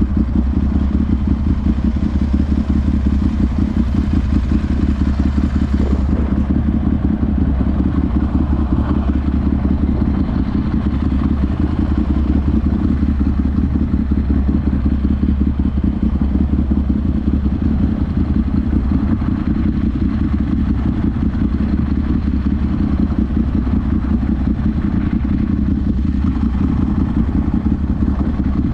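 Ducati Monster 796's air-cooled L-twin running through twin Akrapovic silencers, holding steady, even revs with no revving up or down.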